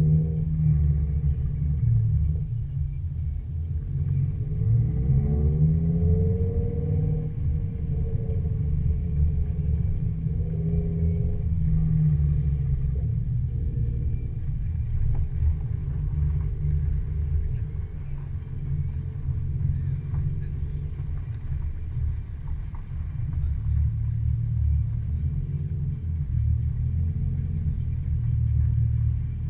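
Ford Focus RS's turbocharged five-cylinder engine pulling away and driving past, its pitch rising and falling over the first several seconds, over a steady low rumble.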